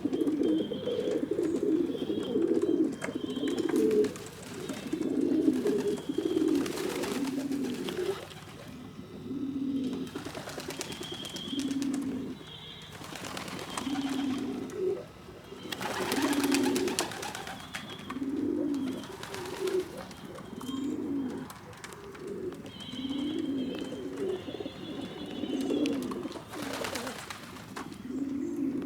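Several pigeons in a loft cooing over and over, low rolling coos overlapping thickly at first and then coming about one every second or so, with a few brief rustling bursts among them.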